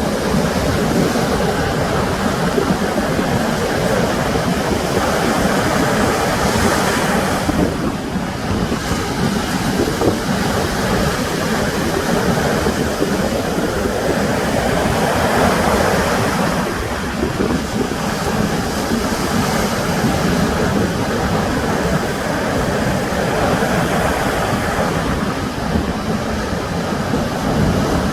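Sea surf washing onto the shore as a steady rushing noise that swells louder twice, with wind buffeting the microphone.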